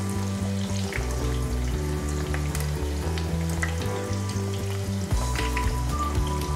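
Whole bitter gourds deep-frying in hot oil: a steady sizzle with many small crackles as they are turned with a wire skimmer, over soft background music.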